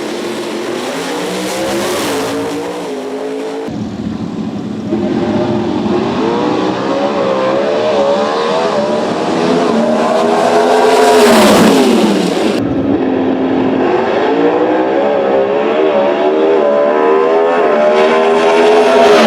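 Racing car engines at high revs in a run of edited clips, their pitch climbing repeatedly as they accelerate and dropping off, with a steep fall about eleven seconds in.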